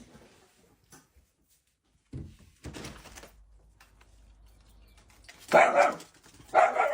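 A dog barking twice, loud, about a second apart near the end, after some quieter knocks.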